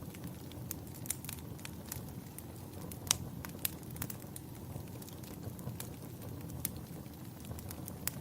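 Wood fire burning with a low steady rumble and scattered sharp crackles and pops, the loudest pop about three seconds in.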